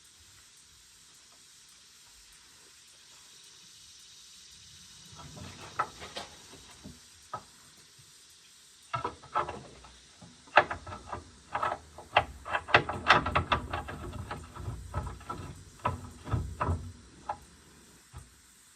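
Hand tools working on metal during a hydraulic hose repair on a skid steer: irregular clicks, taps and clanks start about five seconds in and come thick and fast through the second half, then stop shortly before the end.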